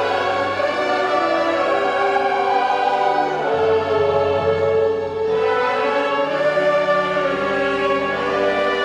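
Choir singing with orchestra, a slow passage of long held chords that change every second or two.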